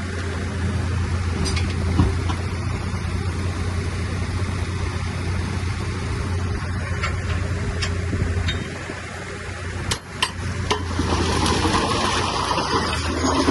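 Heavy diesel earthmoving machine running steadily, with scattered clinks and clatter of stone. About ten seconds in the engine sound dips briefly, then a loud rushing, scraping noise of rock and debris builds.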